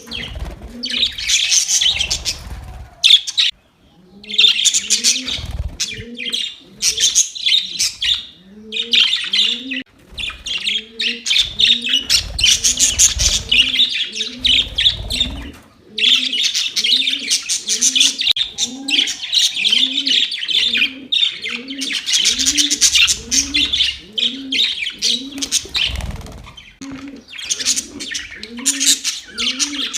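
Budgerigars chattering and warbling in a dense stream of fast chirps, broken by a few short pauses. Beneath them, a low call repeats evenly, about every two-thirds of a second.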